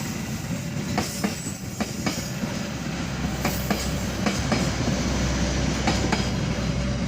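Passenger train passing, a steady rumble with wheels clacking over rail joints, the clacks often coming in close pairs.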